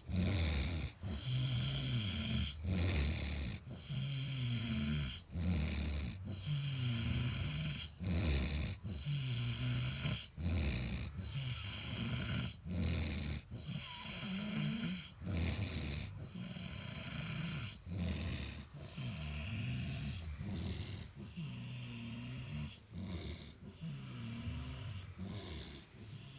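Loud rhythmic snoring-like sound, a low rasping breath repeating about every second and a half.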